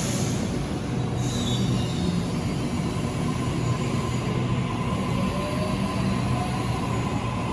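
Waratah A set electric train running, heard from inside the carriage: a steady rumble with a held tone, and a faint whine from the IGBT-VVVF inverter traction drive that rises slowly in pitch over the last few seconds as the train picks up speed.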